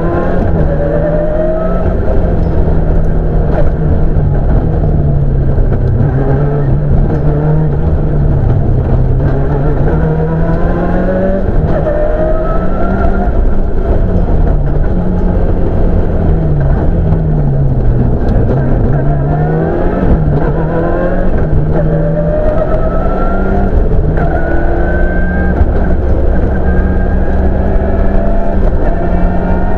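Toyota Celica rally car's engine heard from inside the cabin, driven hard: the pitch climbs again and again as it accelerates through the gears and drops back on each shift, falling further during braking for corners near the middle.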